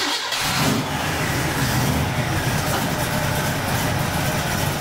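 Chevrolet 350 small-block V8, just started, idling steadily.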